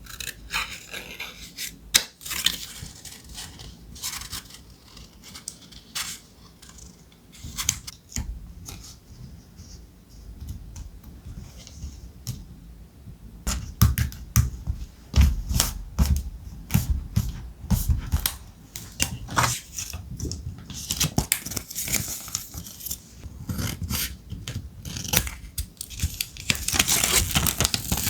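Thick ephemera paper handled close to the microphone: crisp rustles and scrapes with many small sharp taps, and a run of soft low thumps on the desk in the middle.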